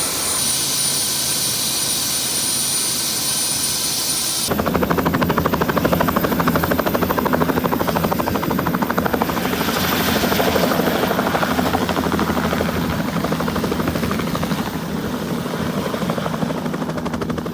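Tour helicopter running in flight, a steady engine whine over a fast rotor beat. About four and a half seconds in the sound changes abruptly: the high whine drops away and the rotor beat comes up louder.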